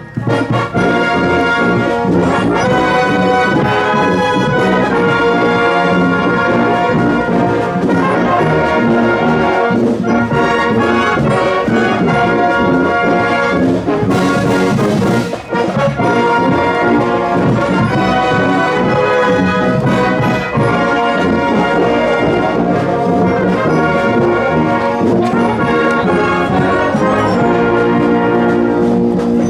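A marching wind band playing, led by brass (trombones and trumpets) in sustained chords and melody. A short crash sounds about halfway through.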